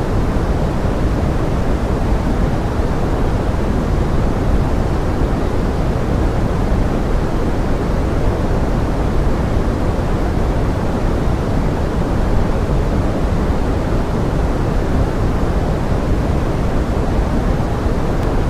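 Forest rain blended into pink noise: an even, unbroken hiss weighted toward the low end, with no single drops or events standing out.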